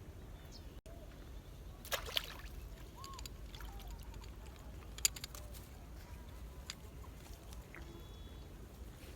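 Water splashing in two short bursts, about two seconds in and again around five seconds, over a quiet outdoor background with faint bird chirps.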